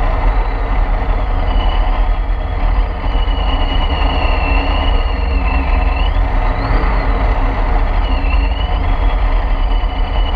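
Supercharged C6 Corvette Z06's 7.0-litre LS7 V8 running at low speed, a steady deep rumble with a high supercharger whine that rises and falls with the throttle.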